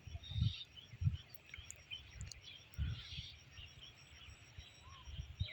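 Faint bird chirps with a few low thumps of wind or handling on the microphone.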